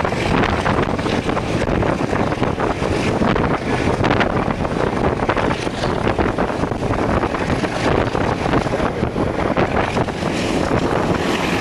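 Wind rushing and buffeting against the microphone over the steady running noise of a moving passenger train.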